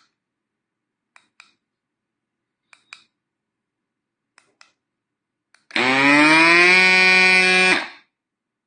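A few pairs of small button clicks, then the Tiiletzote electric mini bike pump's motor spins up with a rising whine, runs steadily for about two seconds and stops.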